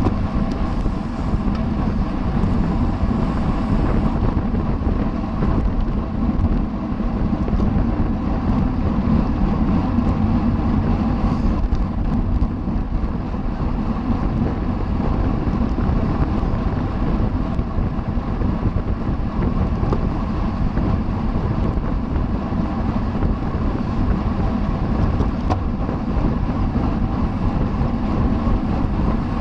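Steady wind rush over the microphone of a camera riding along in a bicycle race, mixed with steady road and drivetrain rumble at race speed.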